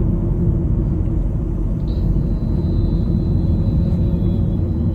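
Car driving, heard from inside the cabin: a steady low rumble of engine and road noise. A faint, thin, high steady tone comes in about two seconds in.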